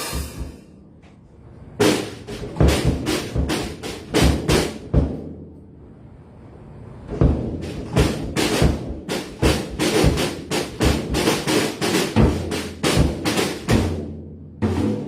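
Drum kit played loosely without a steady beat: two flurries of rapid strikes, with a lull of about two seconds between them.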